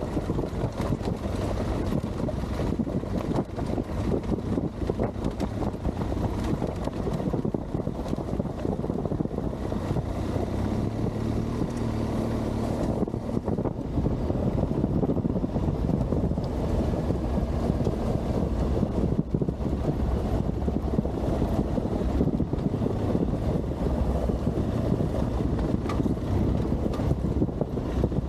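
Adventure motorcycle engine running steadily while riding over loose gravel and rocks, with wind buffeting the microphone.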